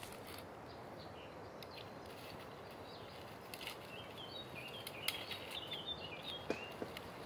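A songbird singing a quick run of chirping notes from about halfway through, over a steady background hiss. Scattered light snaps and rustles of twigs and dry leaf litter as hands part the undergrowth.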